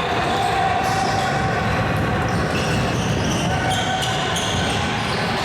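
Basketball game play in a gym: a basketball dribbling, with many short high squeaks over a steady murmur of crowd voices.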